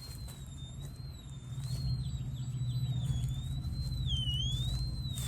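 Metal detector giving a continuous high-pitched squeal whose pitch wavers slowly and dips briefly about four seconds in, the detector's audio signal for buried metal. A steady low rumble sits underneath.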